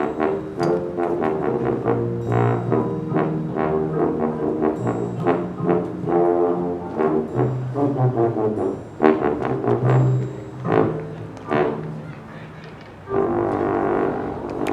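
High school marching band playing: massed brass chords punctuated by sharp percussion hits. The sound thins and drops in level for a couple of seconds near the end, then a loud held brass chord comes back in.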